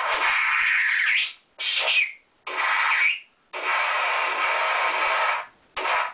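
A toy voice changer giving off bursts of harsh static-like hiss that start and stop abruptly, about five in all, several ending in a short rising chirp.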